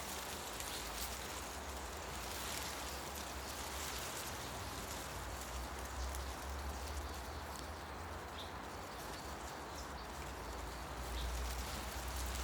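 Tree leaves rustling steadily in the wind, over a low rumble, with a few brief, faint bird chirps in the second half.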